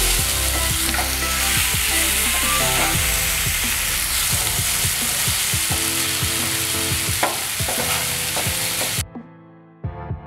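Onions, tomato and green chilli sizzling in oil in a non-stick frying pan, stirred with a wooden slotted spatula that scrapes and taps against the pan. The sizzle cuts off suddenly about nine seconds in.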